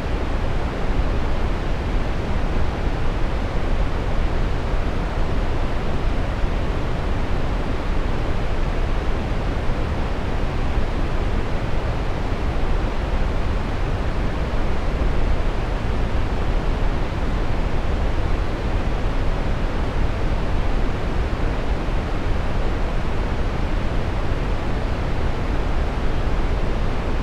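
Steady brown noise: an even, unbroken rushing hiss weighted toward the low end, with no changes.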